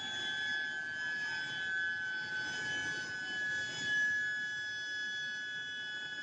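Medium-frequency induction billet heater running: a steady high-pitched whine, one held tone with overtones, over a low rumble of machinery, swelling briefly about four seconds in.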